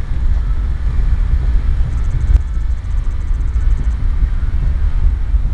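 Low, steady rumble of a BNSF freight train rolling slowly away.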